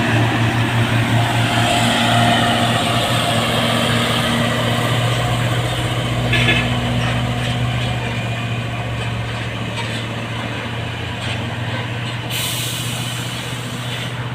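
Heavy diesel truck engine running under load with a steady pulsing throb, slowly fading over the last several seconds. A sudden high hiss begins near the end.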